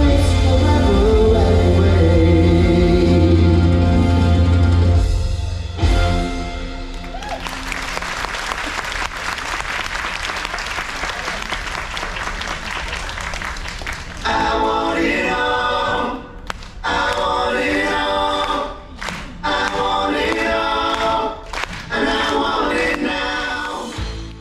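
Stage-show music with singing; the song ends about six seconds in and audience applause follows for about seven seconds. Then a group of singers starts again, broken by several brief gaps.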